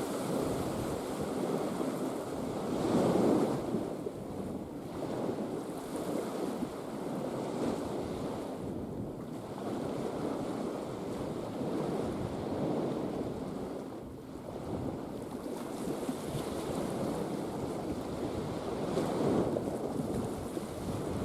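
Mediterranean sea surf washing in, a steady rush that swells louder about three seconds in and again near the end, with wind buffeting the microphone.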